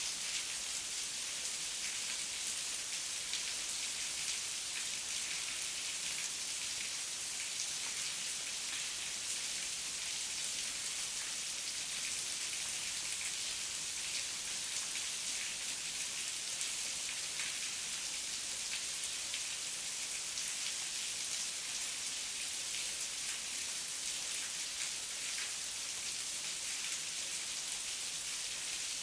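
Steady heavy rain falling, an even hiss threaded with the close patter of many individual drops.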